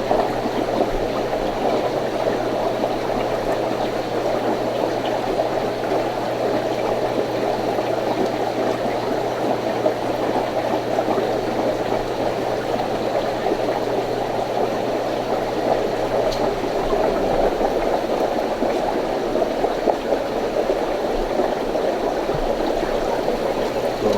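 Steady bubbling and trickling of water from aquarium tank filters and aeration, with a low steady hum that stops about two thirds of the way through.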